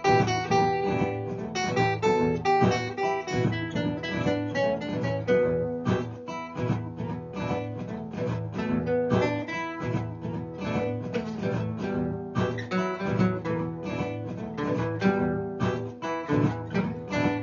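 Acoustic guitar playing a repeating blues riff, several plucked and strummed guitar parts layered over each other by a looper pedal.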